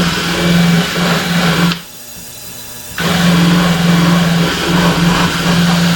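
An electric parts-cleaning machine runs with a steady buzzing hum and hiss. It stops a little under two seconds in, and starts again about a second later.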